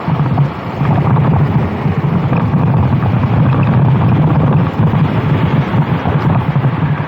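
Go-kart engine running hard under racing load, with wind buffeting the microphone; the engine note drops briefly a few times.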